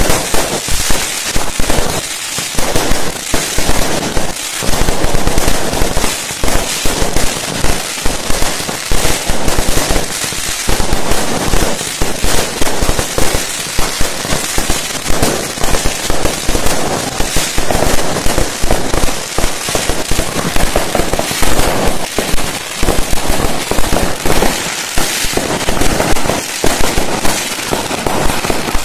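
Fireworks going off in a dense, continuous barrage of sharp bangs and crackling.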